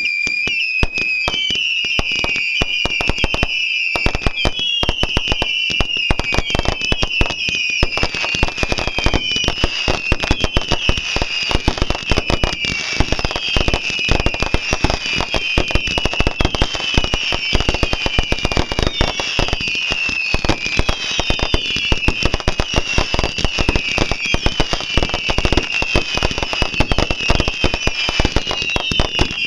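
A long string of firecrackers going off in a continuous rapid crackle of bangs, with a wavering high whistle running over it. It starts suddenly and keeps going without a break.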